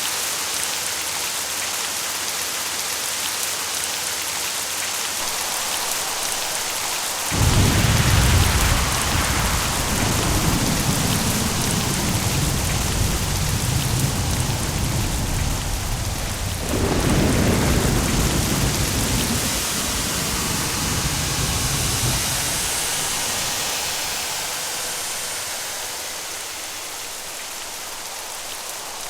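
Steady heavy rain with a long rolling thunderclap. It breaks suddenly about a quarter of the way in and rumbles deep, swells again near the middle, then fades away, leaving only the rain hiss.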